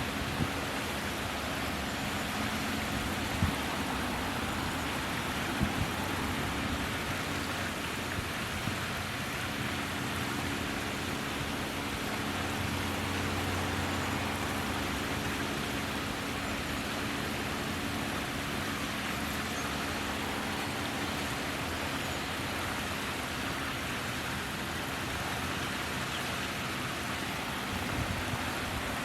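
Steady outdoor background of distant road traffic: a continuous hiss with a low hum underneath, and a few small knocks in the first six seconds.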